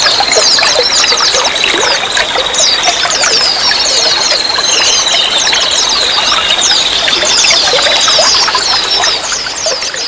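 Running water trickling and pouring steadily, with many short, quick high chirps and a thin steady high tone over it; the sound fades down near the end.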